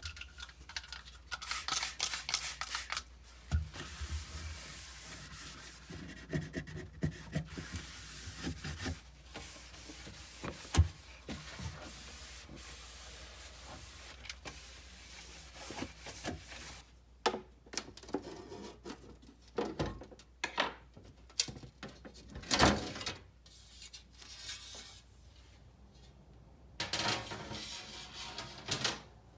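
Handling noise from working a refrigerator shelf out of the fridge: irregular rubbing and scraping with scattered clicks and knocks, a few of them sharp.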